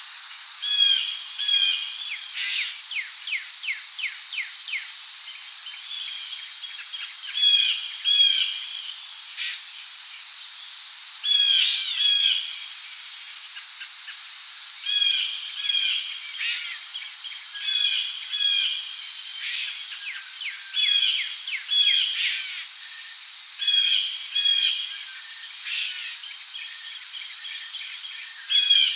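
Rainforest ambience: a steady high drone of crickets with bird calls and chirps recurring every second or two.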